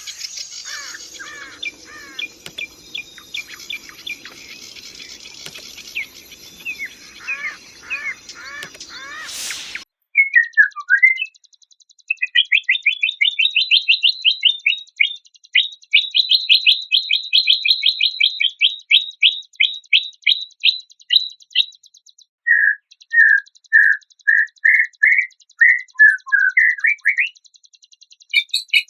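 Recorded songbird song spliced together as shama training material. It starts with a string of short chirps over a faint hum. About ten seconds in, a sudden cut brings fast runs of sharp, high notes, and near the end come separate notes about two a second.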